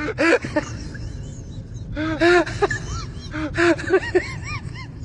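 An animal's calls: a quick series of short squeaky cries, each rising and falling in pitch, some overlapping, over a low rumbling background noise.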